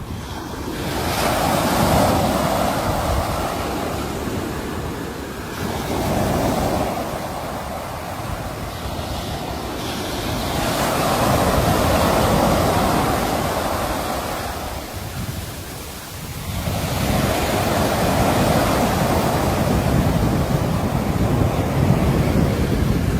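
Sea waves breaking and washing ashore: a constant surf hiss that swells three times in about twenty seconds as each wave comes in.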